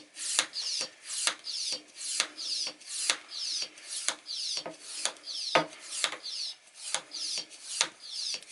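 Nauticam vacuum hand pump being worked on an underwater camera housing's valve, drawing air out of the housing: an even run of about two strokes a second, each a sharp click followed by a short rasping hiss of air.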